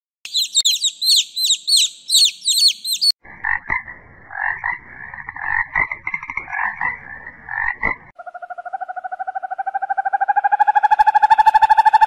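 A small bird twitters in quick, high, repeated chirps for about three seconds. Then frogs croak in a rough, clicking chorus. Near the end a steady, pulsed trill takes over and grows louder.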